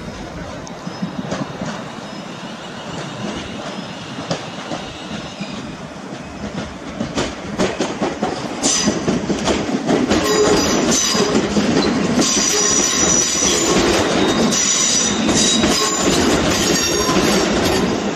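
Class 350 Desiro electric multiple unit running into the platform over pointwork, its wheels clicking over the rail joints. Its running noise grows louder about halfway through, and high-pitched squeals come and go as it slows.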